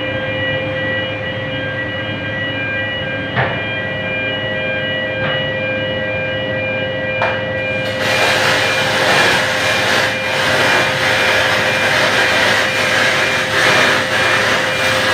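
A steady hum with thin high tones, then about eight seconds in a MIG welding arc on aluminium strikes and runs with a steady hiss.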